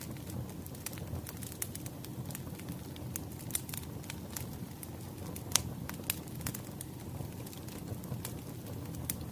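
Wood fire crackling: a steady low rumble of burning logs with frequent sharp pops and snaps, the loudest one about five and a half seconds in.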